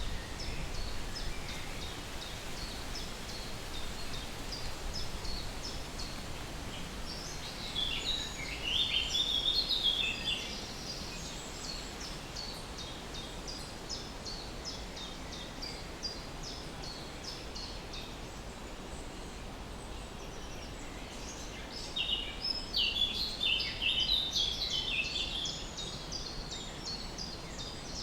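Birds chirping and singing: a steady run of short high chirps, with two louder bursts of quick, jumbled song about eight seconds in and again about twenty-two seconds in, over a steady low background hiss.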